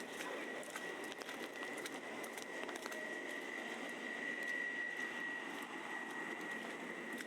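City street ambience: a steady background hum of traffic and people with scattered faint clicks, under a steady high-pitched whine that grows louder midway and then eases.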